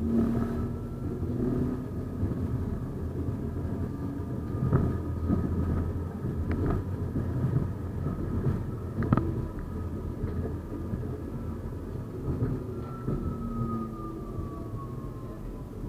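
A 71-931M "Vityaz-M" tram running along the track, with a steady rumble of wheels on rail. Over it there is a thin electric whine from the traction drive that falls in pitch near the end as the tram slows. A few sharp clicks or knocks come in the middle.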